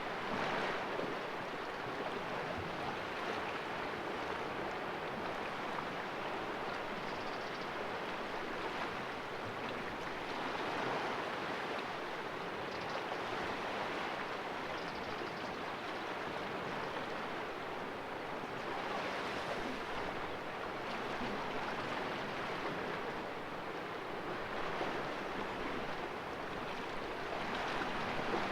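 Small sea waves washing and splashing against rocks in a calm cove: a continuous wash of surf that swells and eases every few seconds.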